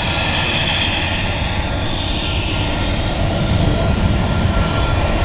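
Boeing 787 airliner's jet engines running on its landing, a steady loud roar with a thin, steady high whine that grows a little louder toward the end.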